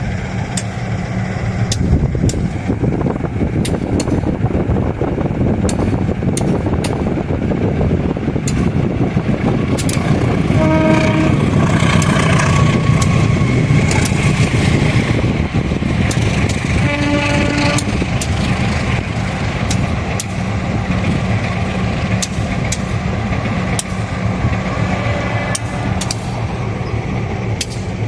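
Diesel locomotive running with a steady heavy rumble, sounding two short horn blasts, one about eleven seconds in and one about seventeen seconds in.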